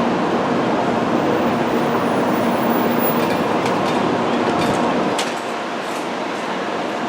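Tokaido Shinkansen train running along the platform, a steady rolling rush with a faint hum that drops off about five seconds in, with a few sharp clicks around then.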